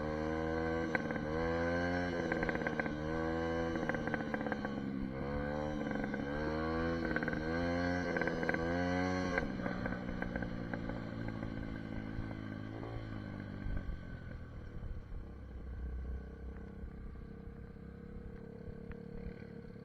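SSR 150 dirt bike's single-cylinder engine revving, its pitch climbing and dropping back about once a second. About halfway through it settles to a lower, steady running sound that slowly fades.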